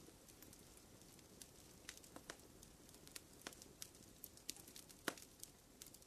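Faint campfire crackling: scattered, irregular pops and snaps over a low, steady hiss.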